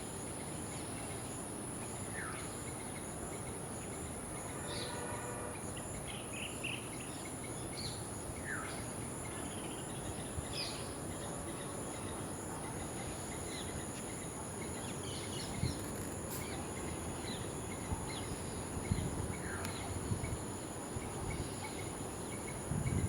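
Insects trilling in a steady high drone, with short bird chirps now and then over it. A few soft low thumps come near the end.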